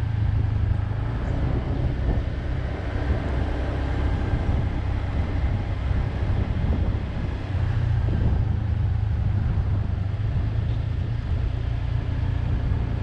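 Motor vehicle on the move: a steady low engine rumble with road noise. The engine note grows stronger about eight seconds in.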